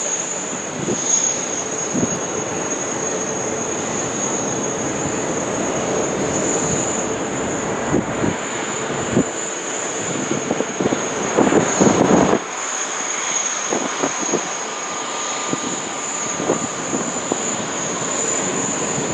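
Jet airliners' engines running at an airport, a steady wash of engine noise with a thin high whine. A lower hum drops away about twelve seconds in, and a few faint knocks come through.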